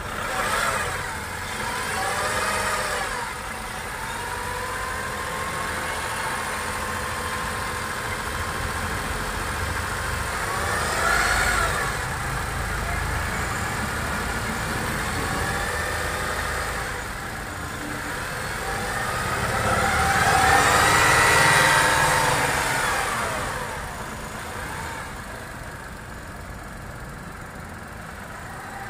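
Tata Punch's 1.2-litre three-cylinder petrol engine, heard from the open engine bay, idling and being revved: a short blip early on, another midway, then a longer, higher rev that falls back to a steady idle near the end.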